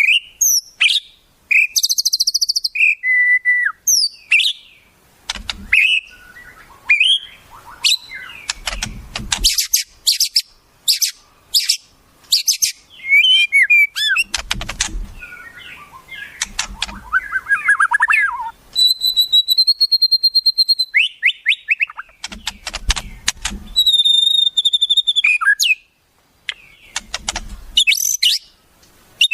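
Wild songbird song: a varied run of sharp whistles, fast clicking rattles and trills, with two long steady whistled notes a little past halfway. It is the kind of song played as masteran to tutor white-rumped shamas (murai batu).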